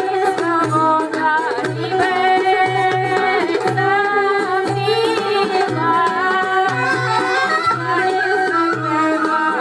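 Lively Bulgarian folk music for a pravo horo: a melody with singing over a steady low drum beat.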